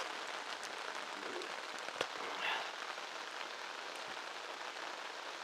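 Heavy rain pouring steadily onto a wet asphalt driveway, with a few sharp ticks, the clearest about two seconds in.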